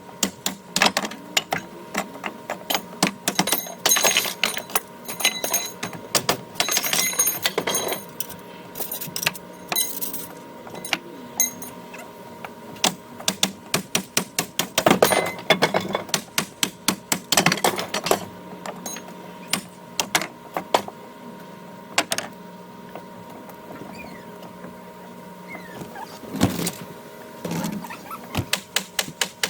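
Rapid knocks, bangs and clatter of a rotted wooden deck railing being pried and knocked apart, sped up so the blows come in fast runs. A steady hum runs underneath.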